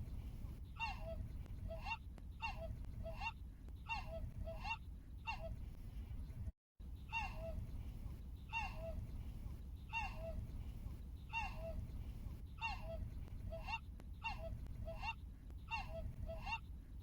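A bird calling over and over in two-note, cuckoo-like phrases, each note falling in pitch, with a low background rumble. The sound briefly cuts out about a third of the way through.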